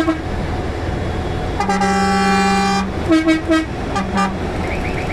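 Truck horn blasts over a low engine rumble: one long steady blast of about a second, then three quick short toots and a last short toot.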